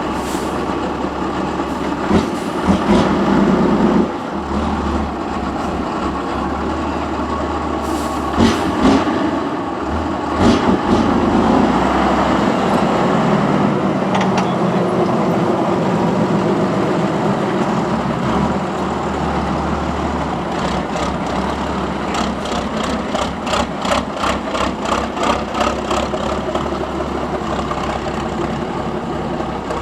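Off-road trial truck's engine running under load, with several sharp knocks and clanks, and a stretch of quick, even pulsing beginning a little past two-thirds of the way through.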